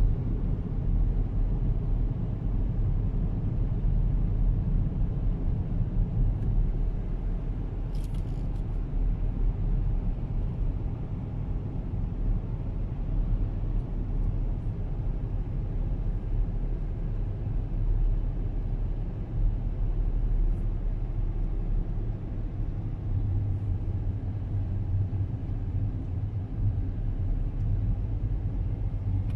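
Steady low rumble of a car driving along a road, with engine and tyre noise and a brief faint hiss about eight seconds in.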